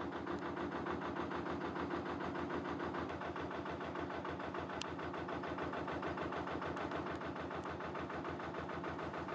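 Narrowboat's diesel engine running steadily with an even, regular chugging beat.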